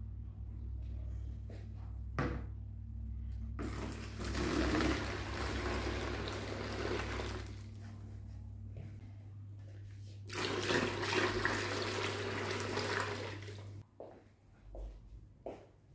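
A small motor hums steadily and stops near the end. Over it come two loud rushing, water-like stretches of several seconds each.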